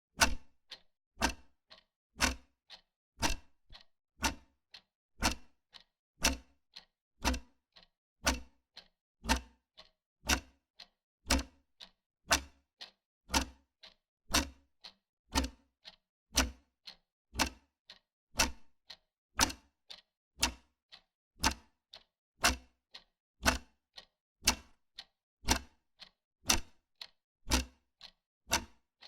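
Wall clock ticking steadily, about two ticks a second, alternating a louder and a softer tick like a tick-tock.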